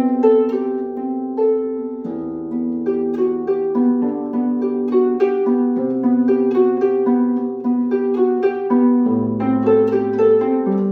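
Solo harp music: plucked notes ringing on in a flowing melody, over lower bass notes that change every few seconds.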